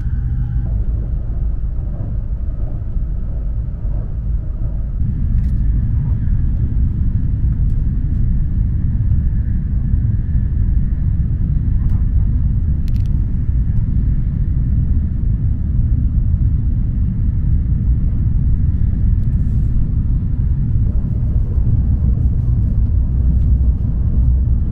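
Steady low rumble of a Shinkansen N700S bullet train running at speed, heard from inside the passenger cabin.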